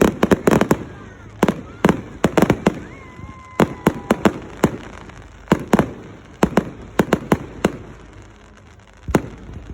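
Firework display: many sharp bangs and cracks going off in quick, irregular clusters, thinning out near the end with a short lull before one last bang.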